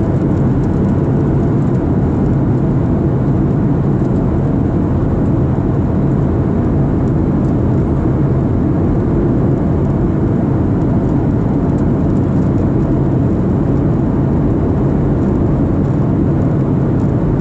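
Boeing 737-700 in flight: a steady drone of its CFM56-7B turbofans and rushing air, deep and even, with a low hum underneath and no changes.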